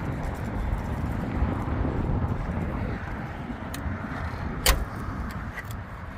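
Car engine running with a steady low rumble. A single sharp click comes a little past the middle.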